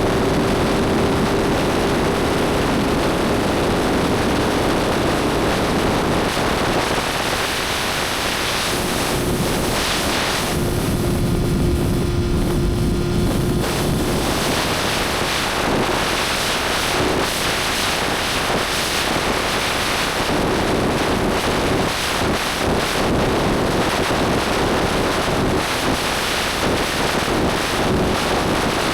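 Motorcycle engine running at a steady cruising speed under heavy wind rush on the microphone. The wind hiss eases for a few seconds about ten seconds in, while the engine note holds steady.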